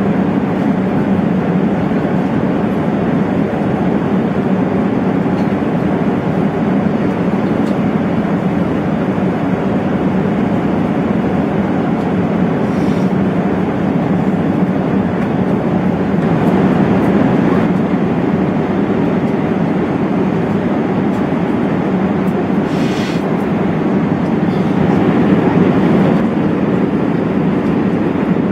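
Steady cabin noise inside an Airbus A380 airliner: the low, even drone of engines and airflow, without change.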